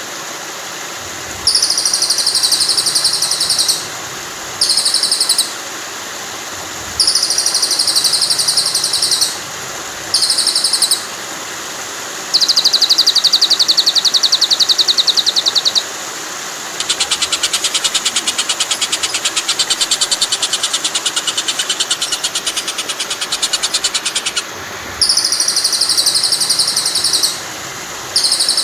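Songbird trills from a murai batu training recording: very fast, high trills repeated every second or two, each one to three seconds long, with a longer, fuller trill of about seven seconds in the middle. A steady rush of flowing water runs underneath.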